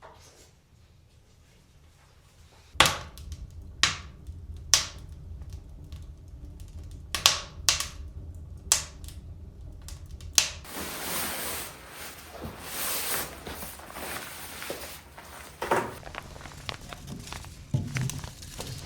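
Six sharp knocks spread over the next six seconds, about three seconds in, then a steady rushing hiss lasting about five seconds, then more scattered knocks near the end.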